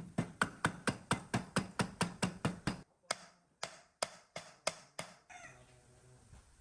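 A quick run of sharp knocks, about five a second, then six slower strikes about half a second apart, in the manner of a part being tapped or hammered at the workbench.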